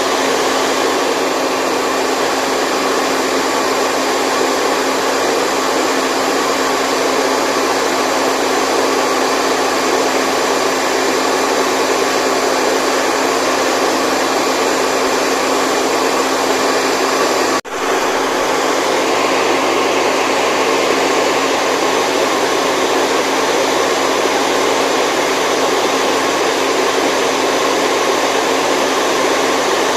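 Steady white noise from an electric blower-type motor, a continuous rush of air with a steady motor hum underneath. It breaks off for an instant about eighteen seconds in, then carries on unchanged.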